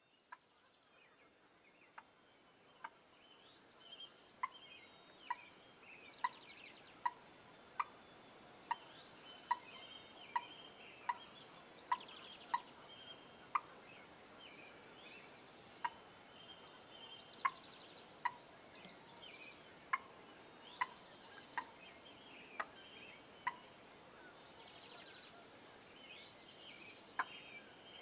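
Wild turkey calling: a long run of short, sharp notes about one a second, with songbirds singing faintly higher up.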